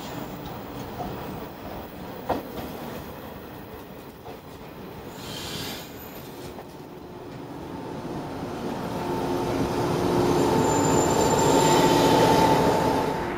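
JR West 115 series electric train running along the platform: a few wheel clicks over the rail joints, a short hiss about five seconds in, then a steady high whine that grows louder over the last few seconds.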